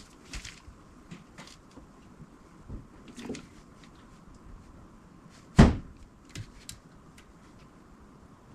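Scattered clicks and knocks of tools and parts being handled, with one loud thump about five and a half seconds in.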